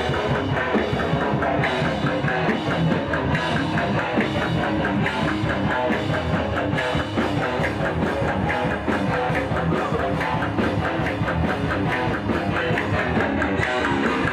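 Heavy metal music: distorted electric guitar over a drum kit playing fast, steady hits.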